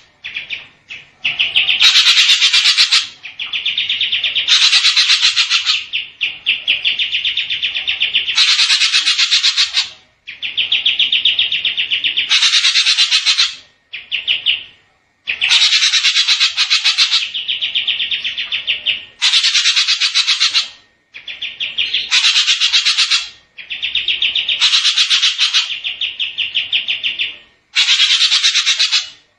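Recorded songbird 'masteran' song used to train captive songbirds: rapid, buzzy trills repeated in phrases of one to two seconds with short gaps between them, some phrases brighter and higher than others.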